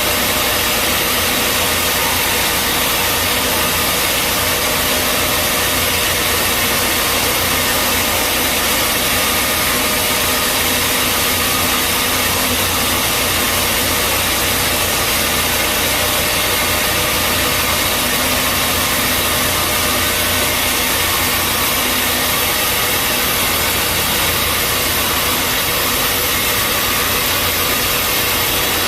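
Bandsaw sawmill running steadily, a loud even machine noise with a faint steady hum and no pauses.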